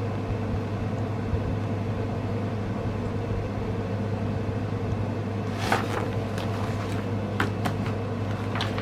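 Steady low background hum, with a few short clicks and rustles of handling starting about six seconds in.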